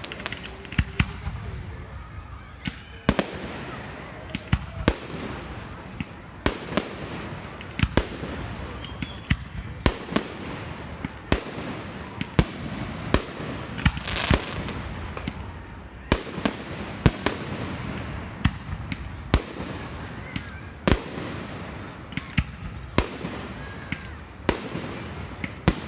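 Fireworks display: aerial shells bursting in a steady, irregular run of sharp bangs, often one to three a second, with crackle and rumble between them.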